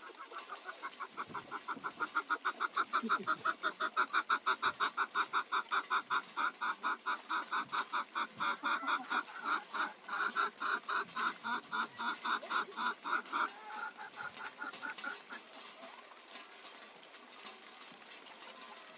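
Chicken clucking in a long, fast, even run of about six clucks a second. The run builds up at the start, then thins out and stops about three-quarters of the way through.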